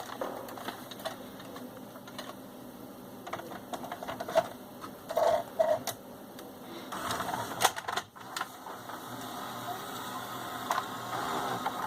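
Panasonic NV-P05 VHS video recorder's cassette mechanism running, a steady whirr with scattered clicks, busiest about seven seconds in, as the freshly repaired machine is tested.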